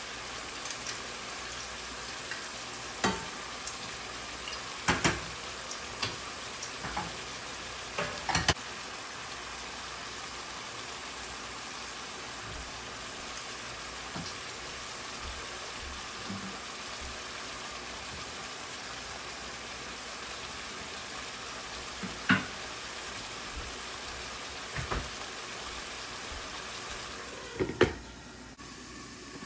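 Beef, bell pepper and tomato sizzling steadily in a pan, with a few sharp clinks as small whole potatoes are tipped in from a glass bowl. Near the end a glass lid knocks down onto the pan, and the sizzle turns quieter and muffled under it.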